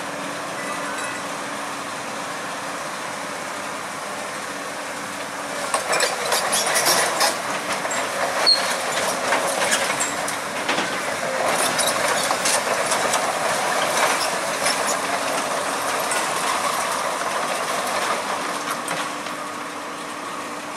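Heavy machinery running steadily, then about six seconds in a louder stretch of dense metallic clanking and rattling with sharp knocks over the running engine.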